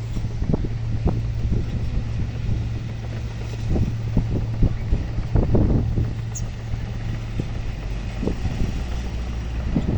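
A heavy diesel engine running steadily at the earthworks, with wind buffeting the microphone in irregular low gusts, heaviest from about 4 to 6 seconds in.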